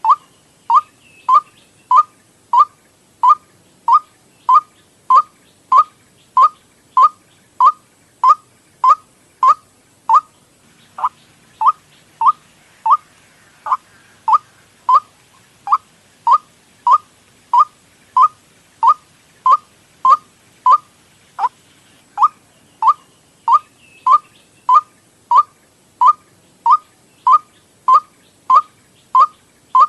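White-breasted waterhen (ruak-ruak) lure call: one short, sharp note repeated evenly about one and a half times a second, with a brief gap about ten seconds in.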